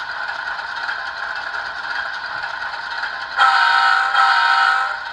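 An ESU LokSound sound decoder in an HO-scale GE ES44AC model plays a diesel idling through the model's small speaker. About three and a half seconds in, it sounds two short blasts of a multi-chime locomotive air horn.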